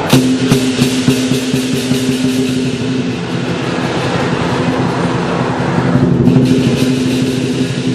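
Lion dance percussion: drum, cymbals and gong playing together. Cymbal strikes come thick and fast in the first couple of seconds and again about six seconds in, over a steady ringing low down.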